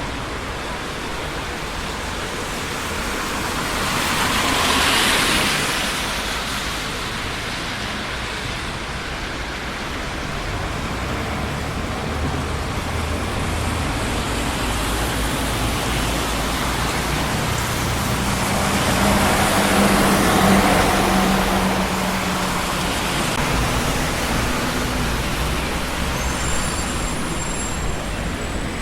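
Busy city street traffic: a steady wash of car and tyre noise, with vehicles passing close by about five seconds in and again about twenty seconds in, the second with a low engine hum.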